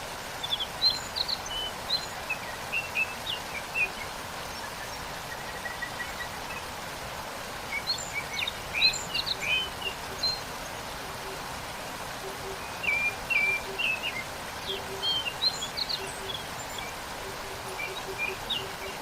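Steady rush of a waterfall, with small birds chirping and twittering in several short clusters. A soft, low note repeats in quick pulses through the second half.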